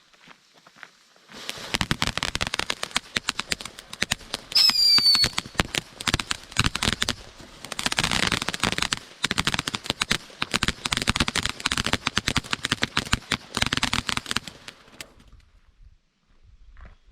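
Consumer firework going off: a dense run of rapid crackling pops for about fourteen seconds, starting a little over a second in. A short, loud, slightly falling whistle comes about four and a half seconds in. The crackle stops near the end.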